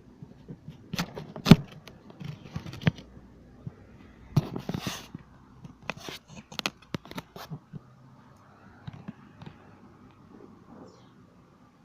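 Irregular knocks and clicks mixed with short scraping sounds, frequent through the first eight seconds and then sparse.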